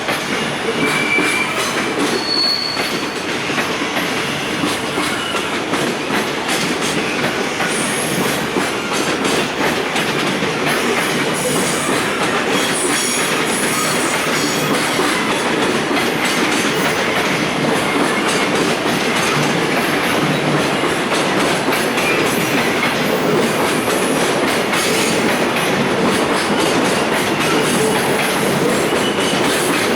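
Koki container flatcars of a freight train rolling past on jointed track: steady wheel-and-rail rumble with clatter over the rail joints and brief high squeals from the wheels.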